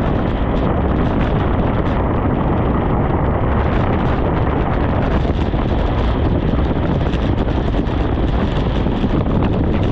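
Wind buffeting the microphone of a camera carried on a bicycle descending a wet mountain road: a loud, steady rushing noise.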